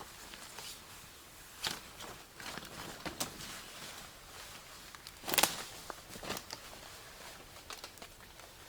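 Scattered light knocks and rustles of something being handled, with a louder knock about five and a half seconds in.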